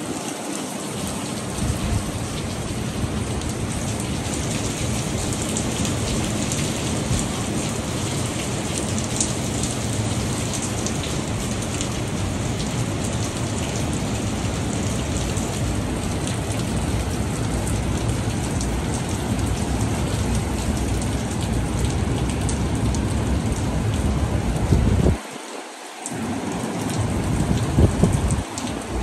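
Tropical-storm wind and rain making a steady, loud noise, with the wind buffeting the microphone in a deep rumble. The low rumble drops away for about a second near the end, then returns.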